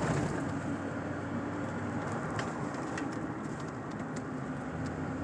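Steady road noise heard from inside a moving truck's cab: engine drone and tyre rumble, with a few faint light ticks.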